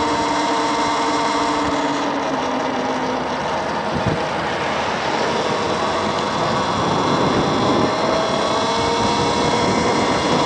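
Wind rushing over the microphone of an electric motor scooter at road speed, with a faint whine from the drive drifting in pitch.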